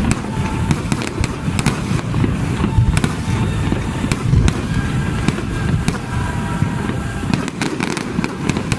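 Aerial fireworks going off: dense overlapping low booms with many sharp crackles and bangs.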